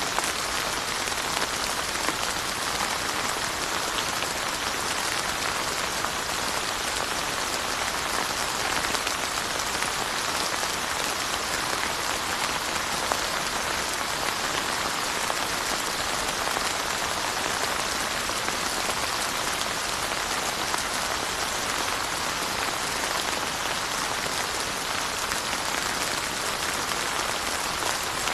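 Steady rain falling: an even hiss made of a dense patter of drops, without letup.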